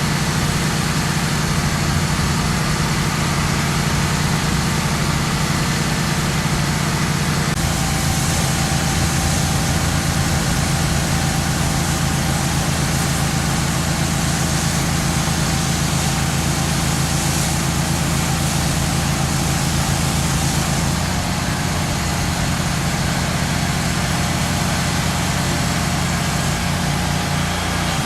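Boom truck's engine running steadily, its note shifting slightly about a third of the way in and again about two-thirds in.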